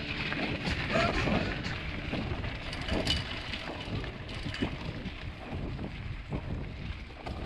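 Wind rumbling on the microphone of a mountain bike riding a dirt road, with scattered knocks and rattles.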